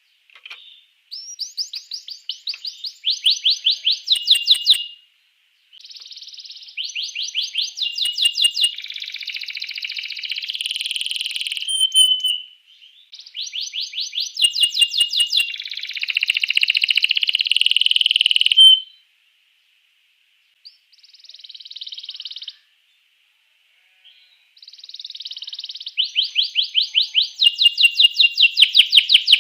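Domestic canary singing: long phrases of fast, rapidly repeated trilling notes, some ending in a held note, broken by short pauses, the longest a couple of seconds about two-thirds through.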